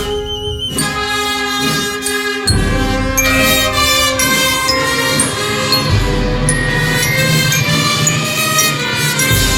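A Guatemalan funeral march (marcha fúnebre) played by a brass band, with brass and woodwinds holding sustained chords. The low bass line comes in about two and a half seconds in.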